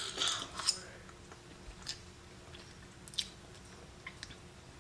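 A person biting a forkful of soft chocolate mug cake off a fork, then chewing it with a few faint mouth clicks.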